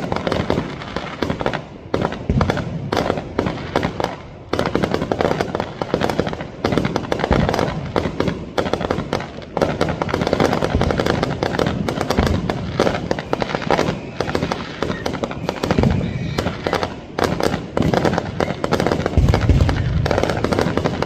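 Fireworks and firecrackers going off without pause: a dense crackle of rapid pops with frequent deeper booms.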